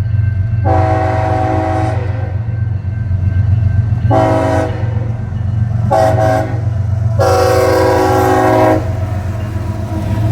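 Locomotive air horn sounding a chord of several tones in four blasts: a long one, two short ones and a final long one, over the steady low rumble of the train.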